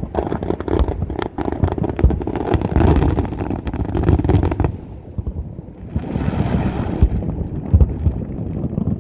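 Fireworks in a finale volley: many booms and crackles in rapid succession, thinning out about five seconds in, then a short hissing crackle and a few more low booms.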